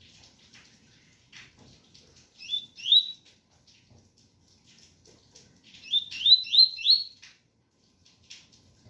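Double-collared seedeater (coleiro) singing its 'tui tui' song: two rising whistled notes about two and a half seconds in, then a quick run of four rising notes around six to seven seconds. Faint rain patter runs underneath.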